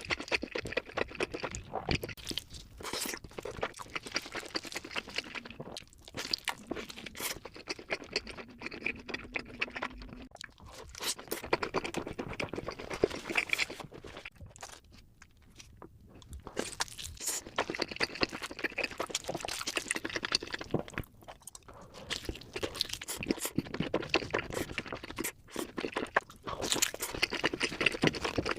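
Close-miked eating of cheese pizza: the crust is bitten and crunched and the mouthful chewed in quick crackly bites, with a short lull about halfway.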